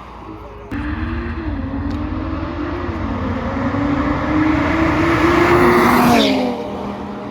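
Car engine pulling hard under acceleration, starting abruptly and growing louder for several seconds. About six seconds in its note drops sharply and settles lower.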